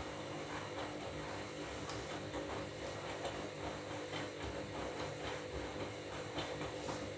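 Washing machine running during a bed-linen wash: a steady motor hum with a faint, regular rhythm over it.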